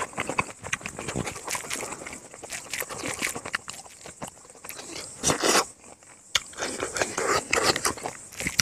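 Close-up chewing and lip-smacking of someone eating rice and pork by hand, a run of small irregular wet clicks, with one louder rasp a little after five seconds in.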